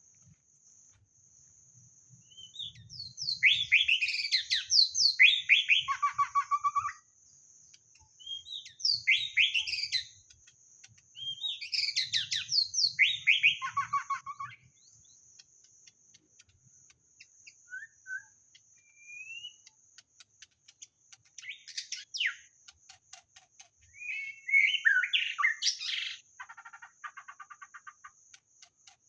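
White-rumped shama singing: loud phrases of fast, varied whistled notes that sweep up and down, three long bursts in the first half, then shorter scattered calls and a final phrase near the end. A steady high thin whine runs underneath.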